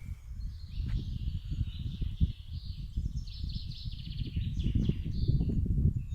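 Morning birdsong: several warbling and trilling songs, busiest and loudest in the middle, over a loud gusty rumble of wind buffeting the microphone.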